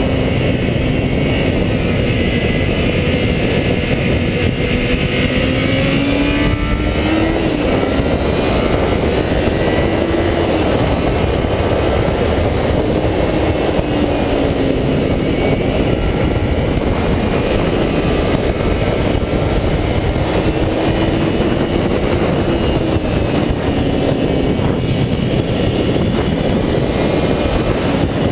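A high-revving 400cc motorcycle engine run hard, held at high revs with its pitch rising and falling gently with the throttle. There is a quick drop and climb in pitch about seven seconds in, over a steady rush of wind noise.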